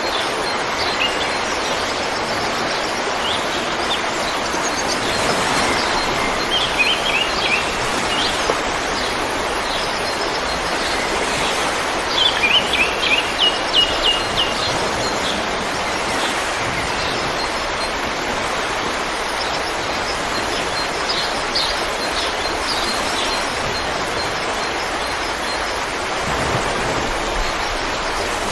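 Steady rush of a flowing river, with songbirds chirping over it in short quick phrases a few times.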